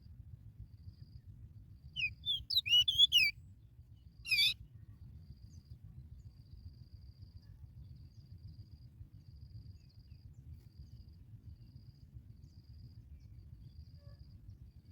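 Sooty chat giving a quick burst of rapid, sweeping chirps about two seconds in, lasting about a second, then one short call a second later. A faint cricket chirps steadily throughout.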